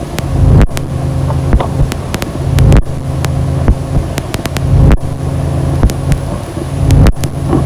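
Dark ambient noise music: a loud, low droning bed of steady tones, sprinkled with sharp clicks and crackles, swelling in a slow pulse about every two seconds.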